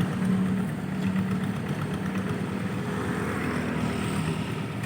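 Engine of a rice-field hand tractor running steadily with an even low hum.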